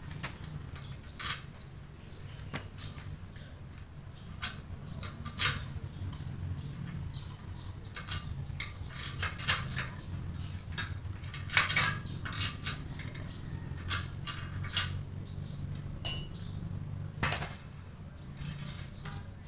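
Metal tools and parts clinking and knocking irregularly during hands-on motorcycle rim repair work, over a steady low hum.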